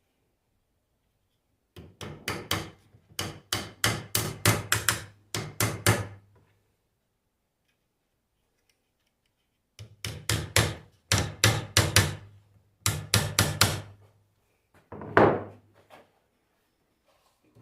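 Sharp metal-on-metal taps from striking a small curved steel plate set against a car alternator's rear cover to break its fasteners loose. They come in two quick runs of about four taps a second, then one heavier blow near the end.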